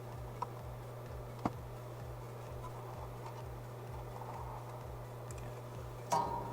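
Small clicks and taps of wire and hand tools being handled during soldering and splicing work, over a steady low hum. Near the end comes a sharper clink with a brief ring, like a metal tool being set down.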